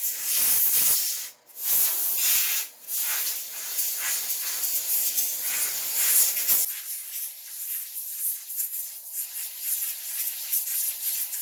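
Compressed air hissing from an air blow gun in short blasts, then in a longer steady blast. It is drying a rubber carburetor float bowl gasket that has swelled from fuel, so that it shrinks back to size.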